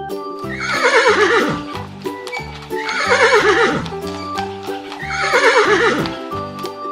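A horse whinnies three times, each a quavering call that falls in pitch, over light background music.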